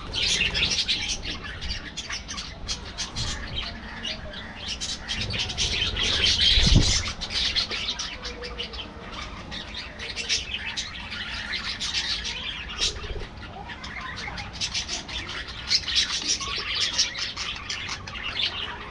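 A flock of budgerigars chattering and chirping in a dense, continuous warble. A brief low rumble comes about a third of the way through.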